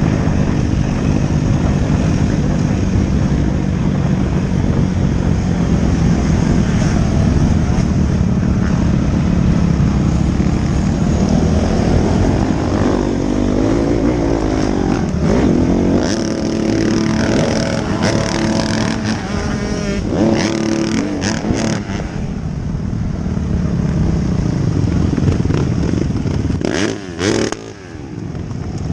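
Motocross bike engines running, with engine notes rising and falling as the bikes rev up and ease off. The sound drops briefly near the end.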